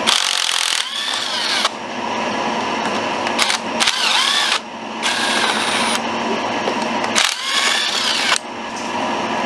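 A power tool running in three short bursts, each about a second long, its pitch rising and falling within each burst.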